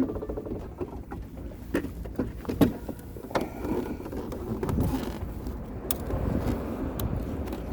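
Aprilia RS125 two-stroke engine note dying away at the start, followed by scattered sharp clicks and knocks and an uneven low rumble.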